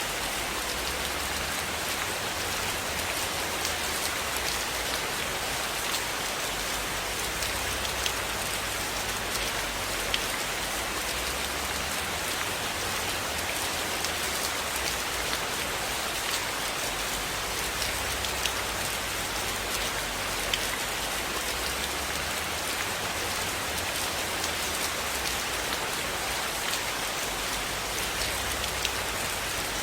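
Steady rain falling on a cabin roof, an even hiss with scattered sharp ticks of individual drops.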